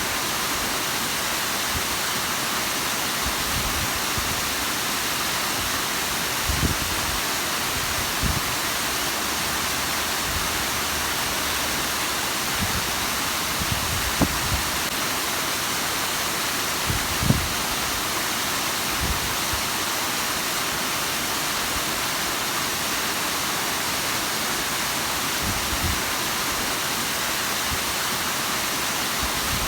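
Bigăr waterfall: water pouring and splashing in a steady, even rush, with a few brief low thumps about 7, 8, 14 and 17 seconds in.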